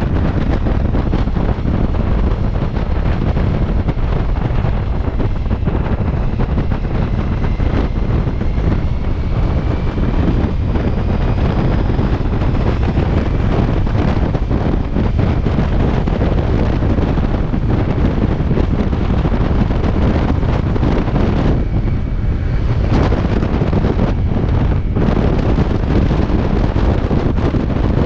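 Heavy, steady wind rumble on the microphone of a moving motorcycle. Partway through, a faint tone from the Ducati Multistrada V4S's engine rises in pitch as it speeds up.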